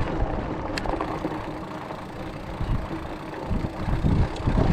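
Ride noise from an e-bike climbing a rough trail under power: a steady electric-motor hum with irregular low rumbles from wind and bumps on the microphone, heavier near the end.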